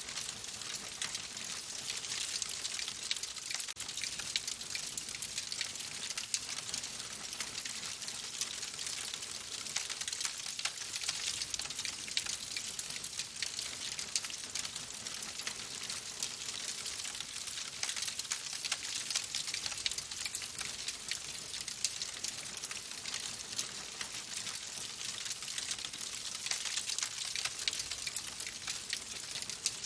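Wood fire burning in a fireplace, crackling steadily: many small sharp pops and snaps over a constant hiss.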